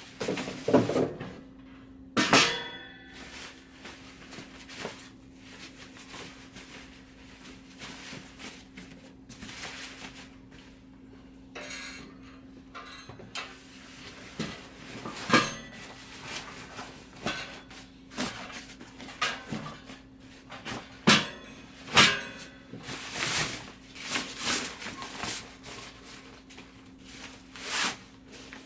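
Metal fire pit parts clanking and clinking as they are handled: many separate knocks, with one ringing clang about two seconds in.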